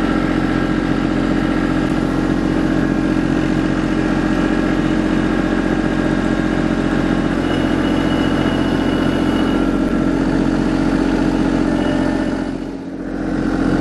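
Kubota LX2610 compact tractor's three-cylinder diesel engine running steadily under working throttle while the forks are worked, dipping briefly in level near the end.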